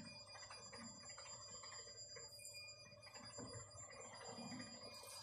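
Faint, steady high whine of a lathe turning slowly under a variable-frequency drive, with quiet metallic sounds of a tap cutting thread into steel.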